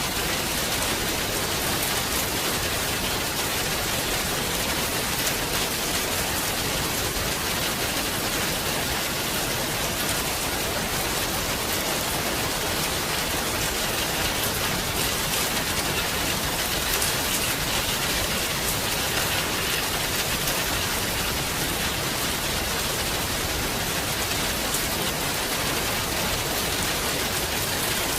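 Heavy rain falling steadily, a dense even hiss with fine patter of drops and no thunder.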